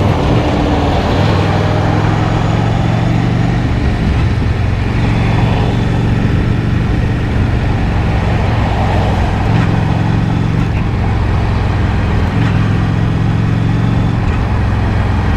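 Honda Shadow 750 V-twin motorcycle engine running steadily while riding, heard through a microphone inside the rider's helmet, with wind noise over it. The engine note shifts a few times.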